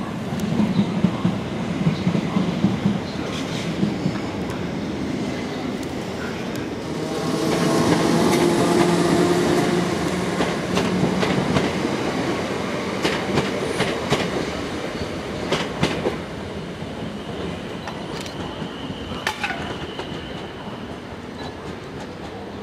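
Electric multiple-unit trains running through the station: a louder passage about a third of the way through with the electric motors whining, then the wheels clacking sharply over rail joints, and a high steady wheel squeal on the curved track a little later.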